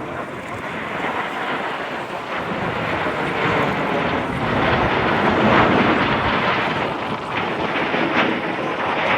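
Eurofighter Typhoon fighter jet flying past, its twin turbofan engines running loud, building to a peak about halfway through with a rough crackle, then easing slightly.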